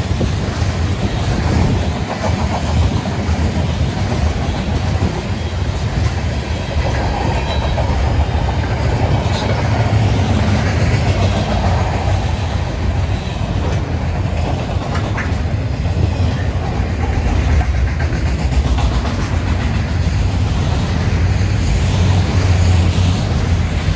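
A CN freight train's cars rolling steadily past, with a continuous low rumble of wheels on rail and a few faint clicks. The train is a long string of tank cars, covered hoppers and autoracks.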